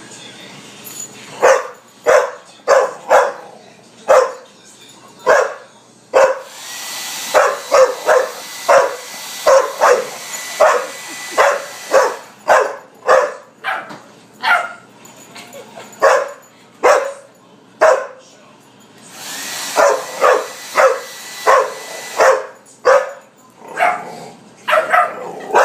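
Pit bull barking over and over, one to two sharp barks a second, at a blow dryer. The dryer's hiss and whine come on about six seconds in and again around twenty seconds, each time fading back after a few seconds.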